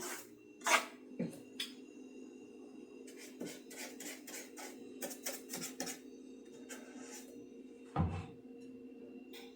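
Small hard objects being handled and set down on a hard surface: scattered light clicks and taps, with a heavier knock about eight seconds in, over a steady low hum.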